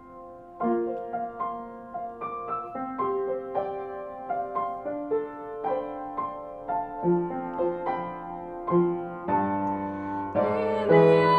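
Piano playing a slow, gentle melody, one struck note or chord after another. Near the end the music swells, fuller and louder, with low notes coming in.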